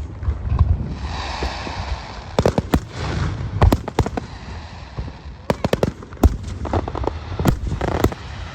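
Aerial fireworks bursting in a rapid string of sharp cracks and deep booms. A hissing crackle comes about a second in.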